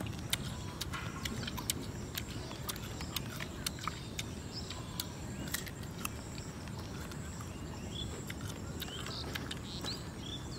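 Irregular sharp crunchy clicks of someone chewing raw guava close to the microphone, over a steady low outdoor rumble, with a few faint short chirps near the end.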